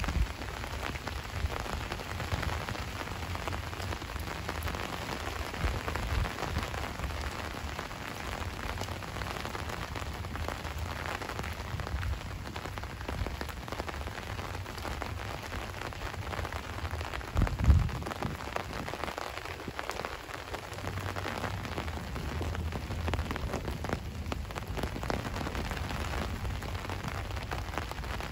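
Steady rain falling and pattering on surfaces, with one dull thump about two-thirds of the way through.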